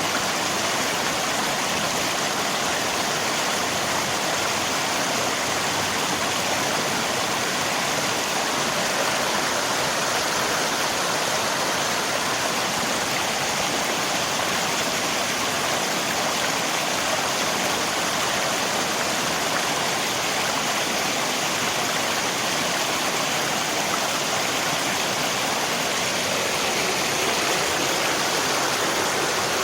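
Steady rush of flowing river water mixed with falling rain, even and unbroken throughout.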